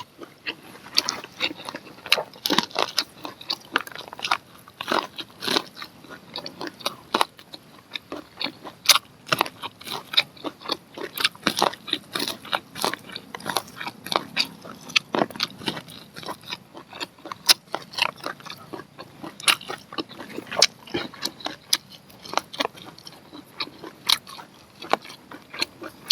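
Close-miked biting and chewing of grilled corn on the cob: kernels crunching and popping in many quick, irregular clicks.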